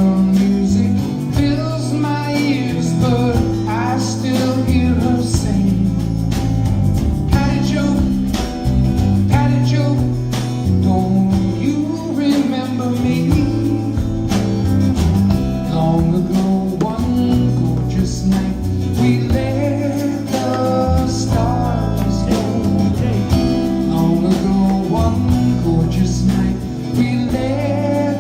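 Live band playing a soft-rock song: a steady bass line and a regular drum beat under guitar, with a lead vocal singing over it.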